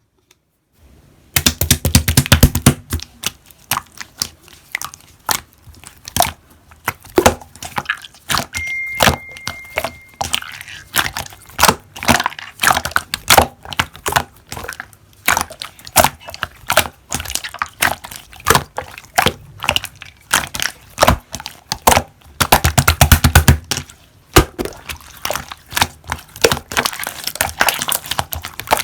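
Slime being pressed and squeezed by hand, giving a dense run of sharp clicks and crackles, heavier for a couple of seconds near the start and again about three quarters of the way through.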